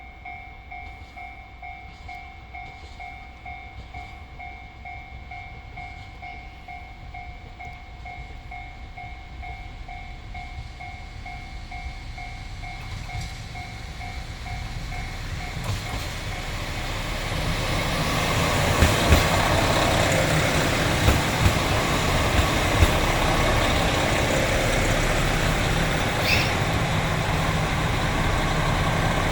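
A level-crossing warning bell rings with an even pulsing two-tone chime. About halfway through, a diesel train's rumble swells as it draws in and passes close, with several sharp wheel clacks over rail joints.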